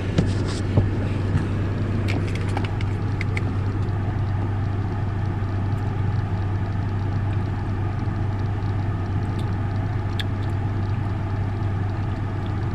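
Steady low hum of a car idling, heard from inside the cabin, with a few small clicks and knocks in the first few seconds and one more near the end.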